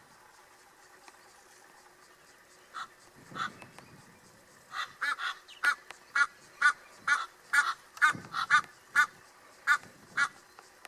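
A bird giving a series of short, harsh pitched calls: a couple of separate calls, then a steady run of about two a second.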